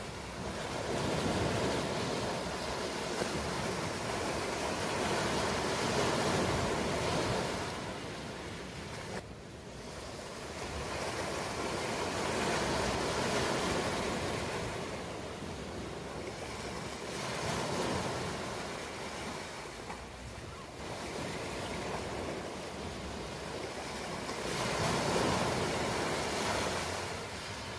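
Ocean surf, the waves swelling and easing in slow surges every five to seven seconds.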